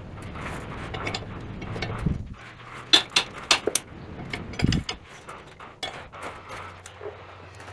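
Hand tools clinking and knocking on metal while bolts are worked on, with a burst of sharp clinks about three seconds in and a dull knock just after.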